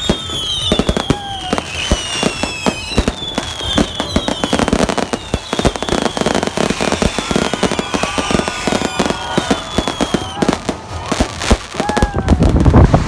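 New Year fireworks going off: a dense run of bangs and crackles, with many whistling tones sliding down in pitch.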